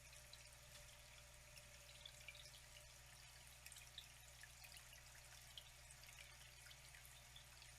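Faint trickling water: a steady soft hiss dotted with many small, scattered drips and splashes.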